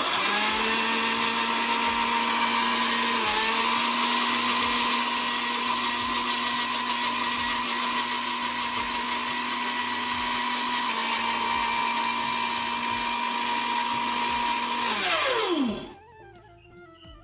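Electric mixer grinder running on soaked rice and water, grinding it into dosa batter. The motor starts at once, runs steadily with a whine, then is switched off near the end and winds down with a falling whine.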